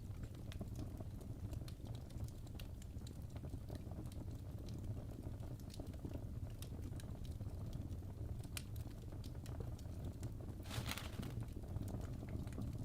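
Logs burning in a fireplace, crackling with irregular sharp pops over a low steady rumble. There is a brief, louder hissing flare of crackles about eleven seconds in.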